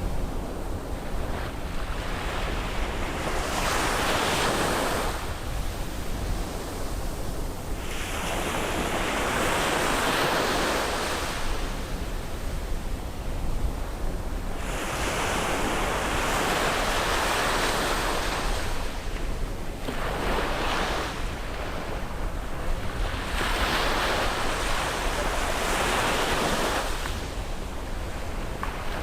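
Sea waves breaking and washing up the shore, the surf swelling and falling back every four to seven seconds. A steady low rumble of wind on the microphone runs underneath.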